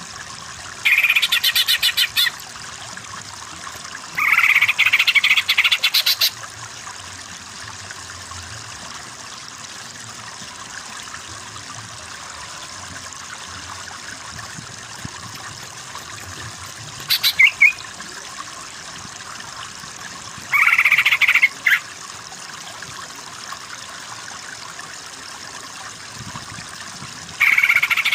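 Cucak ijo (green leafbird) giving loud, rapid chattering trills in separate bursts of one to two seconds, five times, over a steady background hiss.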